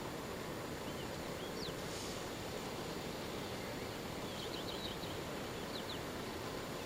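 Birds giving short, high chirps in two brief clusters, one in the first two seconds and one past the middle, over a steady outdoor background hiss.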